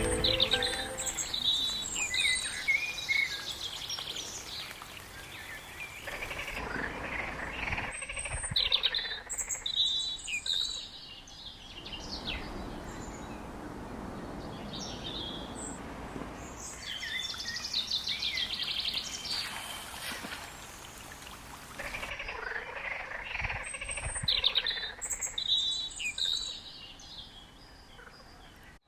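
Songbirds singing, in short repeated chirping and trilling phrases that come in clusters, over a faint steady background hiss.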